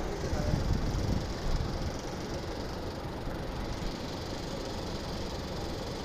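Steady machine noise, a low rumble with a hiss over it, a little busier in the first couple of seconds and then even.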